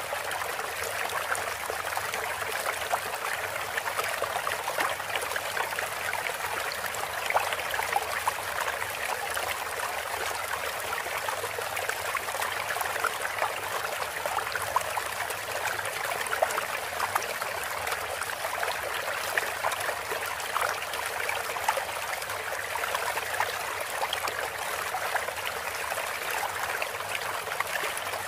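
Running water trickling and splashing steadily, a continuous stream-like sound with many small droplet ticks and no birdsong.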